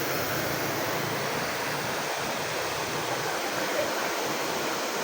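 Rushing water of a waterfall, a steady even noise with no breaks.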